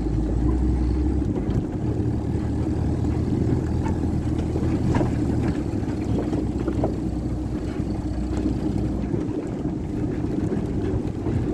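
A motor vehicle's engine running steadily while moving along a rough dirt track, with a few short knocks and rattles.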